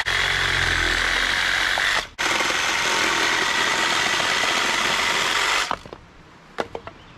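Power saw cutting firewood: it runs steadily, drops out briefly about two seconds in, runs again and stops suddenly near the end. A few light knocks follow.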